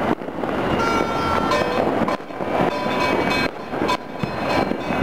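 Citywide New Year's fireworks and firecrackers crackling and popping without a break, with several steady horn-like tones over them.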